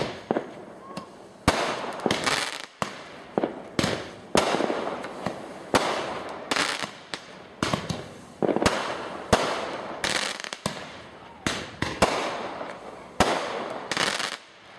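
Aerial fireworks going off: an irregular run of sharp bangs, about one or two a second, each trailing off briefly.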